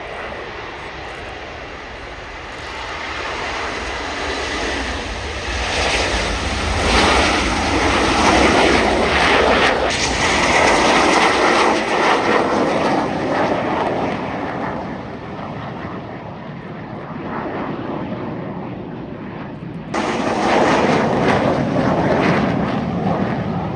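Red Arrows BAE Hawk T1 jets taking off in formation sections: jet noise builds, is loudest for several seconds, then fades as the aircraft climb away. About 20 seconds in, it cuts suddenly to loud jet noise again.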